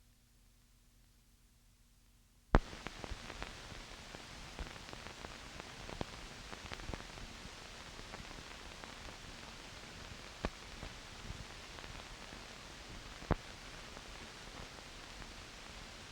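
Near silence, then a sharp click about two and a half seconds in as the 16mm film's optical soundtrack starts. After it comes steady hiss with scattered crackles and pops from the worn print.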